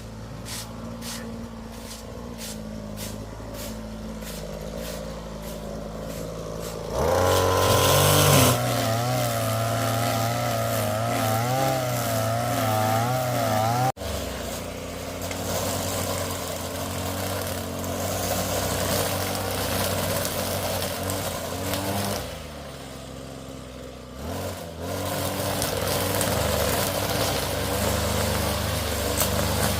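A motor engine running, with a light regular ticking over the first several seconds. It gets louder and wavers about a quarter of the way in, then drops back and rises again near the end.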